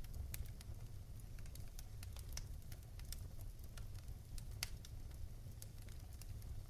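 Fireplace fire crackling: irregular sharp pops and snaps, the strongest about four and a half seconds in, over a steady low rumble.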